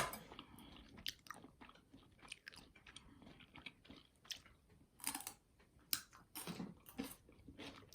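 A person chewing and biting food, with irregular small crunches and a louder crunch about five seconds in.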